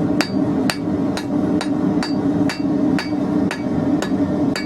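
Blacksmith's hand hammer striking a hot 16mm square steel bar, even blows about twice a second, each with a short metallic ring, while the front end of the bar is shaped. A steady low hum runs underneath.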